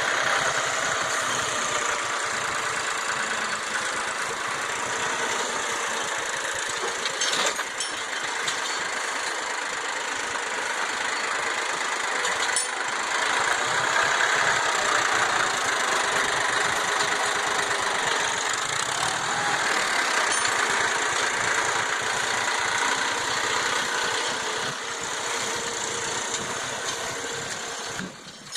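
Ford tractor's engine, rebuilt with a new crank, bearings and seals, running steadily, growing louder for several seconds in the middle, with a few sharp knocks along the way.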